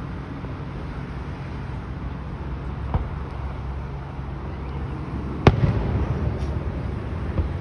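Fireworks going off: a faint bang about three seconds in, then a loud, sharp aerial shell burst about two and a half seconds later with a rumbling echo after it, over a steady low rumble.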